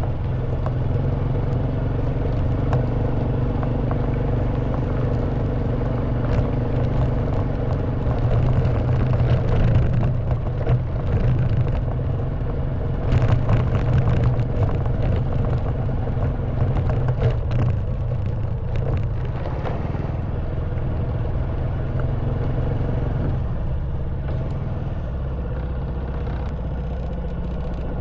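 Honda Wave 110cc single-cylinder four-stroke engine running steadily at low speed on a rough stone and gravel track. The bike rattles and clatters over stones, most heavily from about ten to nineteen seconds in, and the engine note shifts a little near the end.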